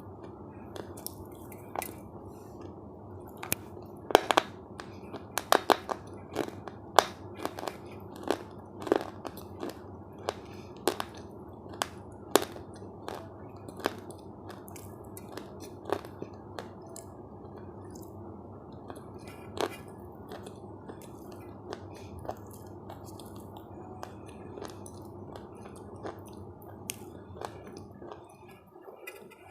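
Close-miked chewing of crunchy food: sharp crunching bites and crackles, coming thick and fast for the first dozen seconds, then more spaced out, over a steady low background hiss.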